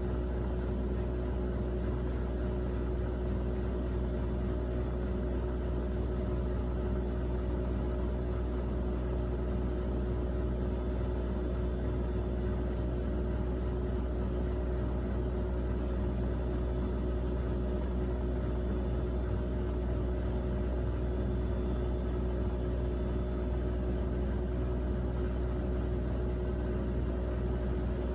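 Miele Navitronic W3985 WPS front-loading washing machine running on its Express 40° programme: a steady, unbroken motor hum with a deep drone and one constant whining tone, the drum turning without pauses.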